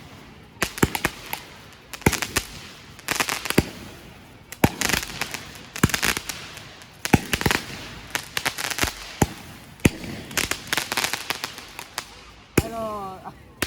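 Fireworks going off: a run of sharp bangs and crackling bursts in clusters about every second. A short voice call near the end.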